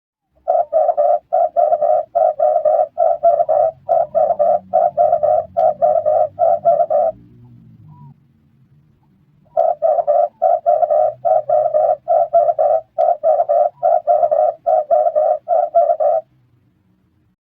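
Red turtle dove cooing: two long runs of short, evenly spaced coos, about two a second. A pause of about two seconds falls between the runs.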